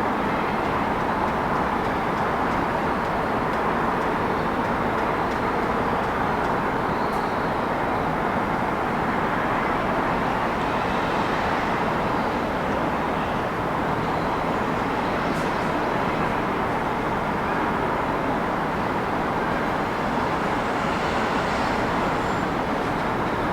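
Steady city traffic noise: a continuous wash of road traffic, with a few faint brief high sounds now and then.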